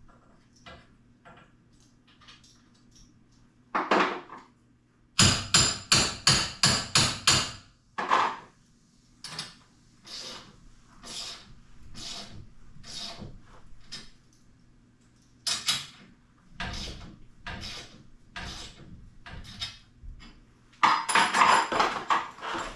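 Hand-tool knocks and taps during garage door spring work: one knock, then a quick run of about eight sharp knocks at roughly three a second, then scattered lighter clicks and taps, and a dense clatter near the end.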